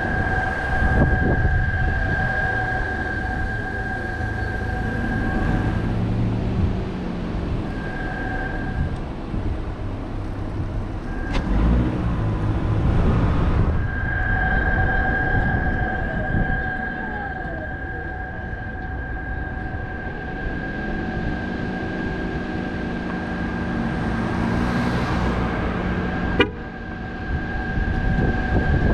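A car driving through city traffic: steady road and engine rumble, with a steady high-pitched tone that drops out for several seconds in the middle. A single sharp click about 26 seconds in.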